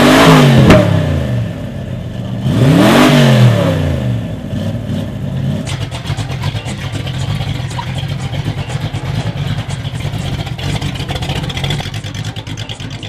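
Two cars drive past one after the other, about three seconds apart, each engine's pitch rising as it nears and falling as it goes by. After that a car engine runs steadily with a rapid pulsing note.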